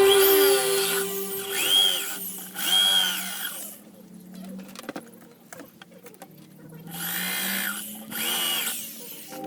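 Power drill motor spinning up and winding down in about five short trigger pulls, each a whine that rises, holds and falls. There is a quieter pause in the middle.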